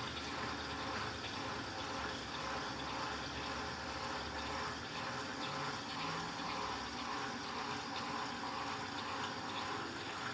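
Water running steadily inside an Electrolux LTC15 top-load washing machine during its wash cycle.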